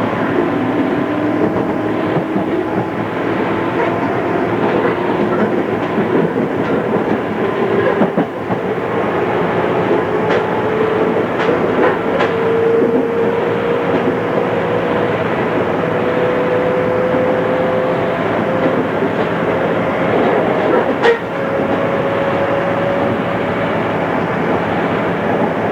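Cabin running sound of a JR East 211 series electric train as it picks up speed. The traction motor and gear whine rises steadily in pitch over the rumble of the wheels, with a few sharp clicks from the rail joints.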